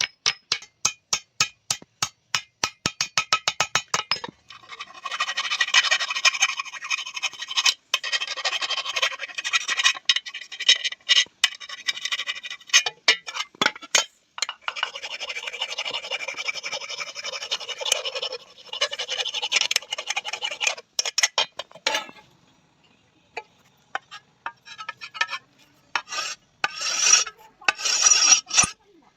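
Hammer tapping a thin iron tawa plate rapidly, about four strikes a second, then long stretches of steady rasping as the metal is scraped by hand. Scattered single taps come in the pauses between the rasping.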